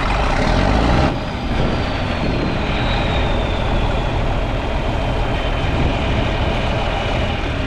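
Large diesel tractor engine just after a cold start, running hard for about a second, then dropping back to a steady idle. A faint high whine slowly falls in pitch as it settles.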